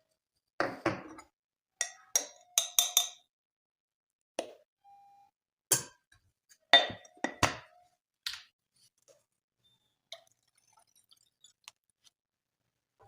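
Dishes and glassware being handled: a series of separate clinks and knocks, several in quick succession, some ringing briefly, then a few faint ticks near the end.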